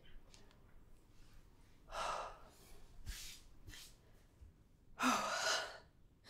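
A person breathing out audibly a few times, the loudest a voiced sigh about five seconds in.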